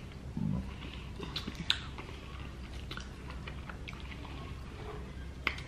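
Close-up chewing and wet mouth sounds of people eating soft food, with scattered light clicks of a fork against a plate.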